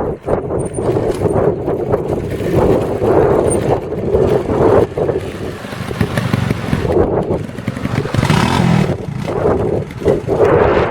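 Trials motorcycle engine running with the throttle worked on and off, the revs rising and falling irregularly.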